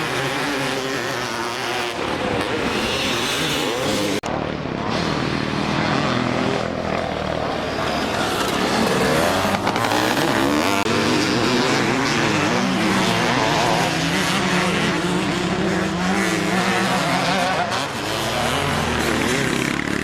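Several motocross motorcycles racing, their engines revving up and down in overlapping, ever-changing pitch, with a brief sharp break in the sound about four seconds in.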